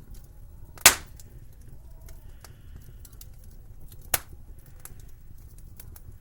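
Wood fire crackling under a low rumble, with scattered small ticks and two sharp loud pops, one about a second in and a weaker one about four seconds in.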